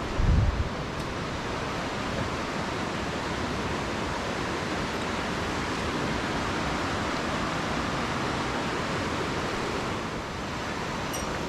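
Steady rushing noise, even from low to high pitches, with a brief low thump about half a second in.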